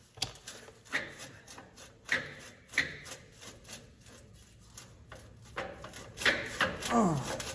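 Irregular knocks and clicks of tools and metal parts being worked by hand, about one every half second to second, with a short sound falling in pitch near the end.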